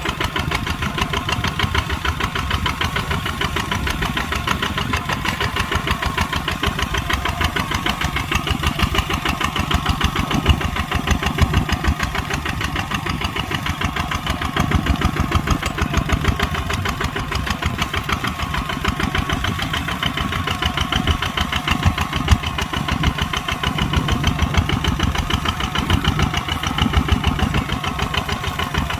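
Kubota tractor's diesel engine running steadily with a fast, even beat.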